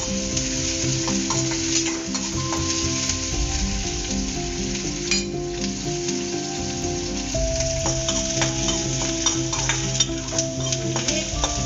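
Sliced onions sizzling as they fry in oil in a steel kadai, with a spatula stirring and scraping against the pan in short, irregular clicks.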